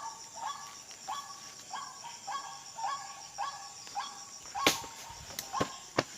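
White-breasted waterhen calls repeat about every 0.6 seconds as a steady series of short, nasal 'kru-ak' notes. A few sharp clicks sound over them near the end.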